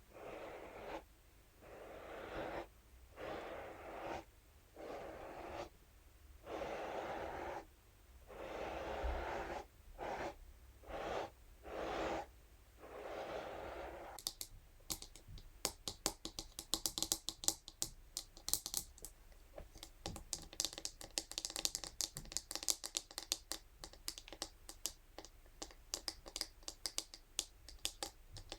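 Scalp massage brush scratched across a surface in about a dozen separate strokes, each about a second long. About halfway through it changes to rapid, light, irregular tapping and clicking.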